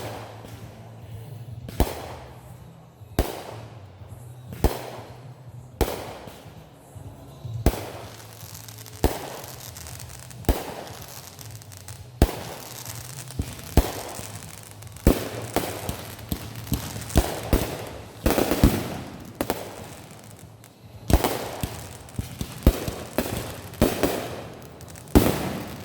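Consumer fireworks going off: sharp bangs about every second and a half. After about fifteen seconds they come quicker and denser, with crackle trailing the bangs.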